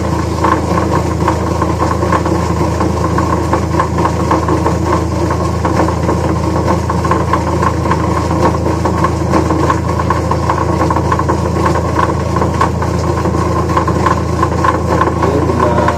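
Washing machine motor running steadily with a constant hum and a fine fast flutter, spinning after a repair with its earlier ear-hurting noise gone.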